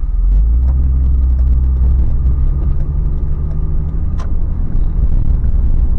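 Toyota 4Runner's 4.0-litre V6 running while driving, with a heavy low road rumble. The engine hum holds steady, then eases off about four seconds in.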